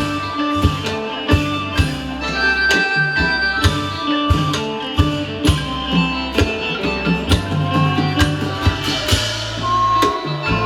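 Isan pong lang ensemble playing a piece of northeastern Thai folk music, with melodic lines over a steady drumbeat.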